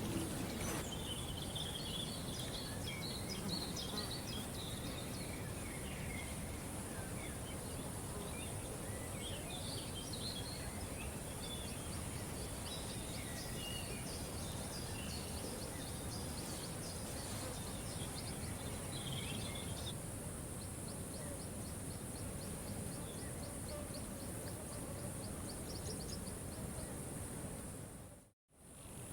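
Small birds chirping and twittering over a steady outdoor hiss. After about two-thirds of the way through, the chirps give way to a fast, even run of high ticks, about four a second. The sound cuts out briefly near the end.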